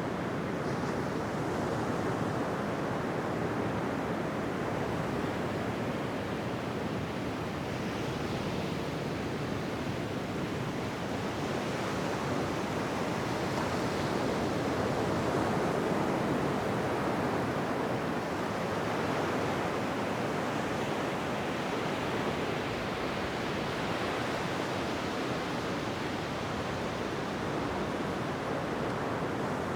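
Ocean surf washing onto a beach: a continuous rush of waves, swelling and easing every few seconds.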